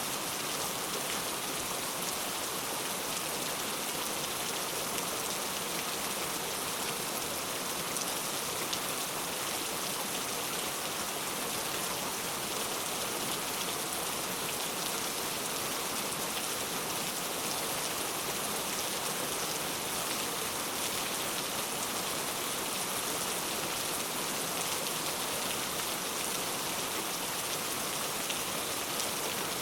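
Steady rain falling on a hard surface, a dense even hiss with fine patter of drops.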